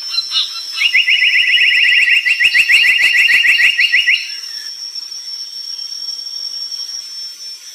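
Brown tali pocong bird singing a fast trill of short rising notes, about ten a second, starting about a second in and lasting about three seconds. A thin steady high whine runs underneath.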